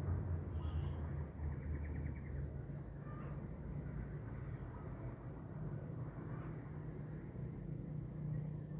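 Faint, short high chirps from a small bird, repeated two or three times a second, over a steady low rumble of distant traffic.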